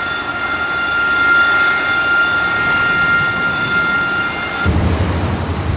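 Jet aircraft engine running with a steady high whine over a rushing noise. It cuts off abruptly near the end, giving way to a steady low hum.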